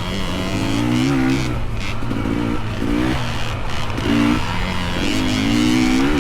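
Small dirt bike engines revving up and down in short bursts as the bikes work along the trail, over the steady idle of another engine.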